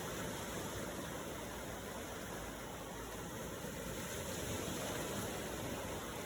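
Ocean waves in a steady, even rush of surf noise, swelling slightly a few seconds in.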